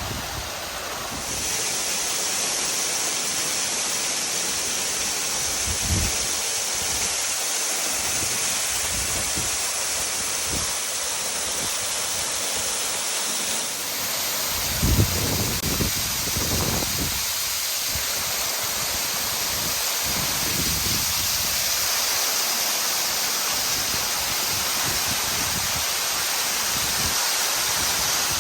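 Steady rushing of a 70 m waterfall, with a few short low thumps partway through.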